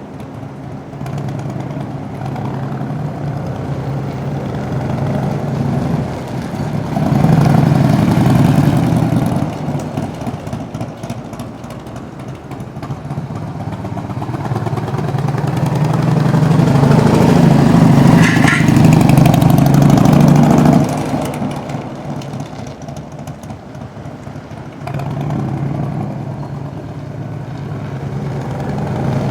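1998 Harley-Davidson FXSTS Springer Softail's Evolution V-twin engine running. It swells loud twice, briefly about seven seconds in and for several seconds around the middle, easing back between, with a smaller swell near the end.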